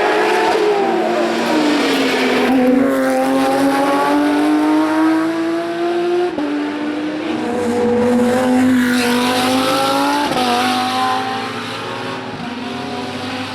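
Race car engine under hard acceleration, its pitch climbing steadily and dropping sharply at upshifts, twice: about halfway through and about three quarters through.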